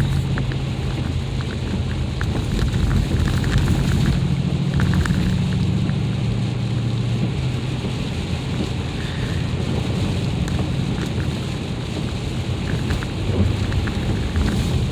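Mercedes ML SUV driving over an icy road: a steady low rumble of engine and road noise with a constant crackle of the tyres crunching over ice.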